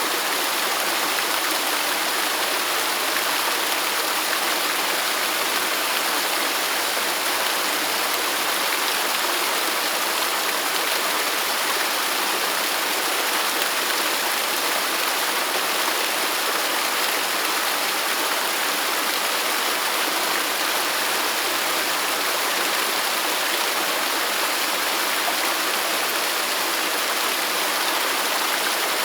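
Waterfall: a steady rush of falling water, an even hiss without pauses and with little low rumble.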